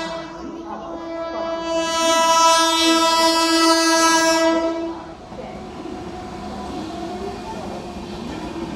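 Horn of an arriving Indian Railways express locomotive sounding one long blast, swelling louder and then stopping about five seconds in. After it comes the steady rumble and clickety-clack of the train running in past the platform.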